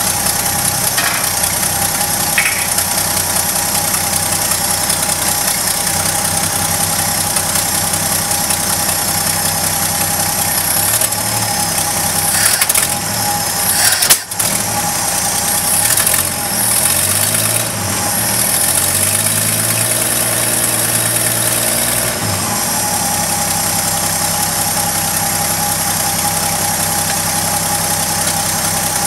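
1972 Chevrolet Custom 10 pickup's engine running at idle, its speed rising and falling for several seconds around the middle before settling back to a steady idle. A single sharp knock comes about halfway through.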